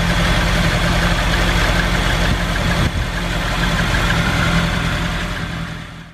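Ford Anglia E494A's sidevalve four-cylinder engine idling steadily and smoothly, its carburettor no longer flooding now that the leaking float has been replaced. The sound fades out near the end.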